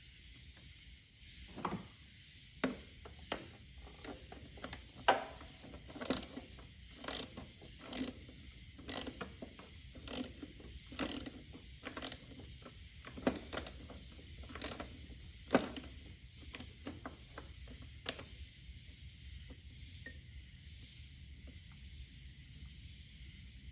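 Hand ratchet wrench clicking in short strokes, about one a second, as a bolt is loosened; the clicking stops about three quarters of the way through.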